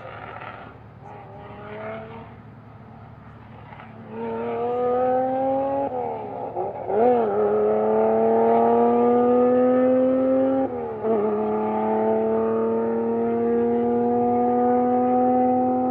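Supercar engine accelerating hard through the gears: its pitch climbs steadily, drops at a gear change about seven seconds in and again near eleven seconds, then climbs again. It gets much louder about four seconds in.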